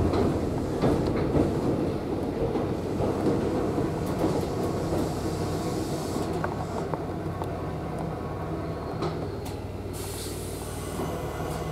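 Running noise inside an electric commuter train as it slows down: wheels rumbling and clicking on the rails over a steady low motor hum, both fading as the train loses speed. A short hiss comes near the end.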